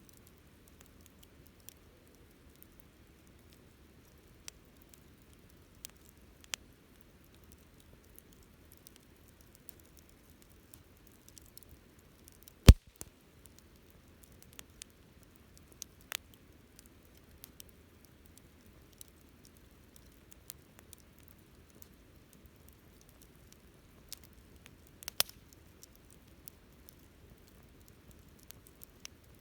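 Wood campfire crackling: scattered small snaps and clicks over a faint low hiss, with one loud sharp pop about halfway through.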